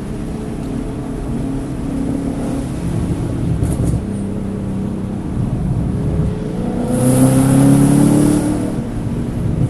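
Car engine running under load on track, rising in pitch and getting louder with a rush of noise about seven seconds in as it accelerates. The engine is misfiring on cylinders 1, 3 and 4.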